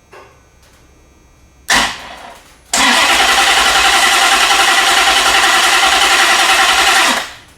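Pontiac Grand Prix's LS V8 being cranked on the starter without catching: a brief crank just under two seconds in, then a steady, rapidly pulsing crank lasting about four and a half seconds that stops without the engine firing. It is getting fuel but no spark, so something in the ECU setup is keeping it from firing.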